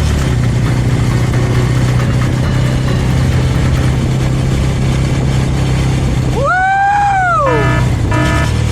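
Suzuki Thunder 250 motorcycle engine running at a steady cruising speed. Near the end a high tone glides up and back down, followed by a string of short repeated beeps about twice a second.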